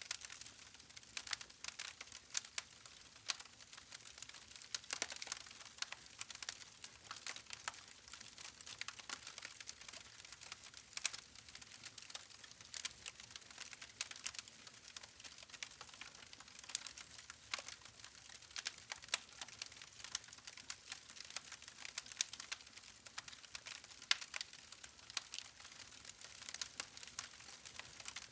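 Log campfire crackling: irregular sharp pops and snaps over a faint hiss.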